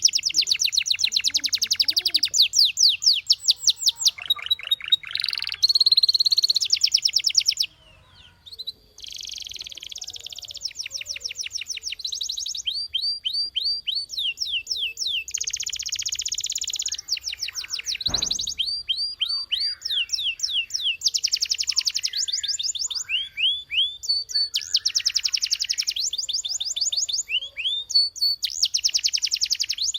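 Domestic canary singing: fast trills of repeated high notes alternate with rolls and down-slurred whistles. The song breaks off briefly about eight seconds in, then runs on.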